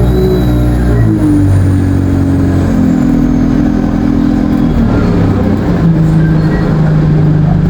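Alexander Dennis Enviro 200 bus's diesel engine pulling under load through its Allison automatic gearbox. The engine note changes pitch at a shift about a second in and again near five seconds. A high turbo whistle peaks in the first second and slowly falls away.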